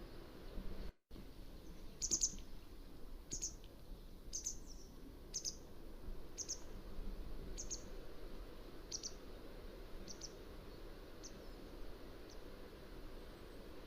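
Mountain wagtail calling: a series of about eleven short, high calls, roughly one a second, growing fainter toward the end, over a faint steady background hiss. The sound cuts briefly to silence about a second in.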